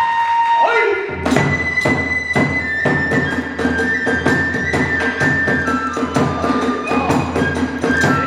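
Kagura hayashi ensemble playing: a bamboo flute holds and steps between high notes over a steady beat of drum and hand-cymbal strokes, about two a second.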